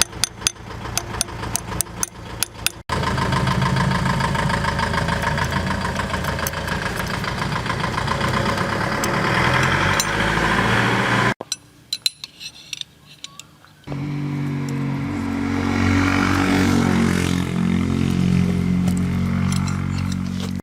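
An engine running with a steady pitched drone that shifts in pitch now and then, heard in separate cut-together stretches. Sharp clicks and knocks come in the first few seconds and again in a quieter stretch past the middle.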